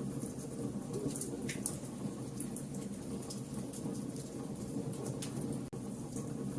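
Fire crackling, with irregular sharp pops and snaps over a steady low rush of burning.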